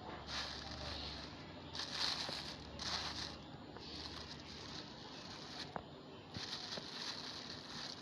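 Plastic litter crinkling and rustling in irregular bursts as it is stuffed into a plastic bag, with a small click partway through.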